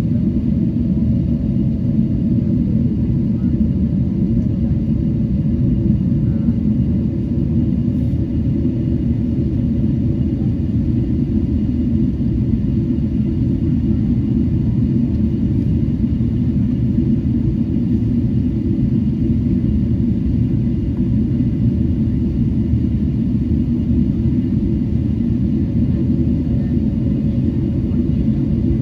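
Cabin noise inside a Boeing 777-300 airliner on its approach: a steady, deep rumble of engines and airflow with a faint hum above it.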